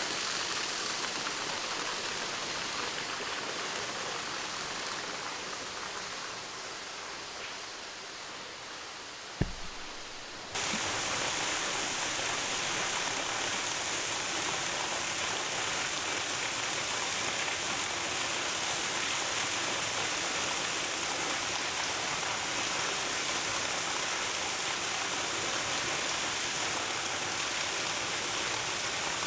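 Waterfall rushing, a steady wash of water noise. A single thump about nine seconds in, and a second later the water noise jumps louder and brighter and stays steady.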